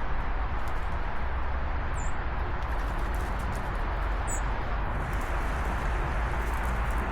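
Two brief, high, falling songbird chirps, about two seconds in and again a little past four seconds, over a steady low rushing background noise.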